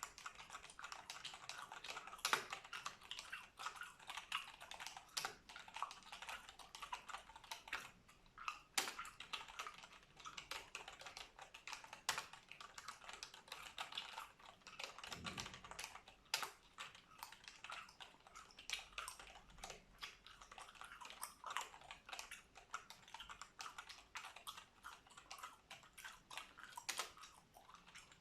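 Computer keyboard typed on continuously: a dense run of key clicks with a few louder strikes, along with gum chewing.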